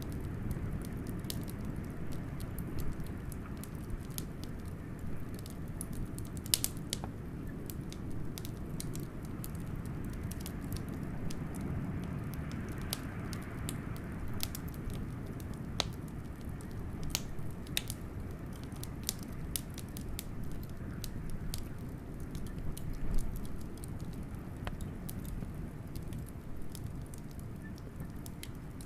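Wood fire crackling with irregular sharp pops and snaps, over a steady low rumble of blizzard wind.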